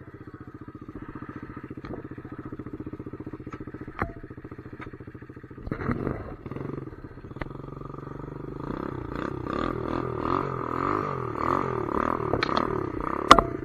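Pit bike engine running steadily at low revs, then revved up and down repeatedly through the second half. A few sharp clicks stand out over it, one at about four seconds and a loud one near the end.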